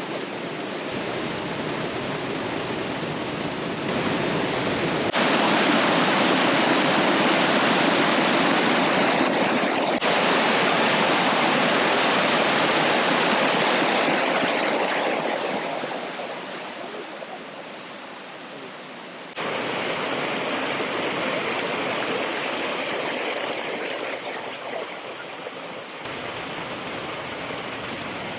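Mountain stream rushing over rocks, a steady roar of flowing water whose level jumps up and down abruptly several times, loudest in the middle.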